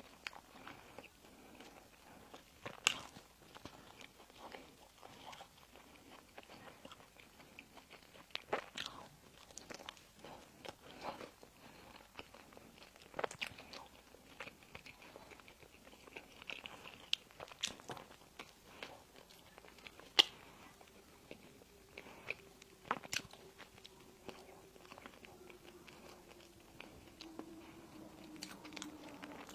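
Close-miked eating of pastries and sweets: irregular crisp bites and chewing, with scattered sharp crunches.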